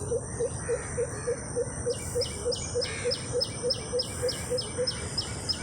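Birds calling at dawn. One repeats a short low note about three to four times a second, and from about two seconds in another repeats a higher note at a similar pace, over a faint steady high drone and an even rushing background.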